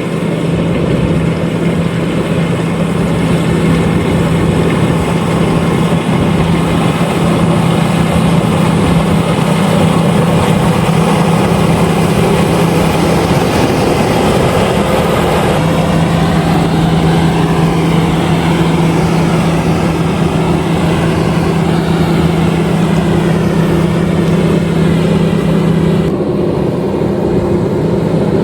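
LOVOL RG130EVO rice combine harvester running under load, a loud steady mechanical drone with a constant hum. The hum drops out briefly about halfway through, and the sound changes a little near the end.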